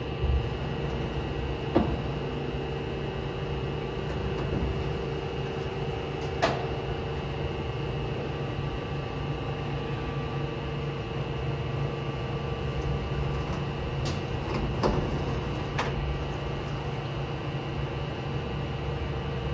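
Steady hum of a CNC lathe under power, holding several constant tones, with a few sharp clicks and knocks scattered through it: about two near the start, one around six seconds in and a cluster near the end.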